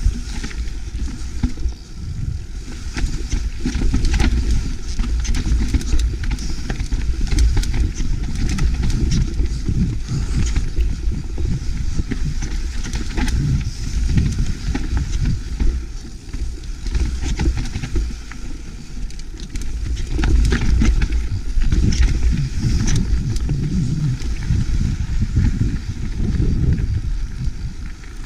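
Mountain bike descending a rocky trail: tyres rolling and crunching over rock and gravel, the bike rattling over bumps, with wind buffeting the microphone.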